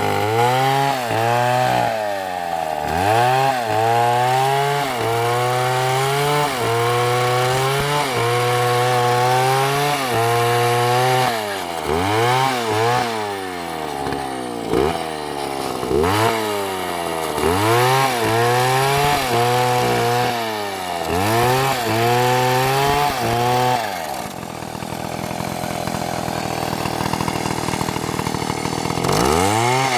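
MS720 chainsaw running at high revs while cutting wood, its engine note dipping and recovering over and over as the chain bites into the cut. About three-quarters of the way through the revs fall away for several seconds, then sweep back up near the end.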